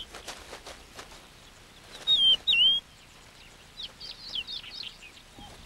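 Birds calling in the grassland: a string of quick down-sweeping chirps, and two louder whistled notes about two seconds in that dip and rise.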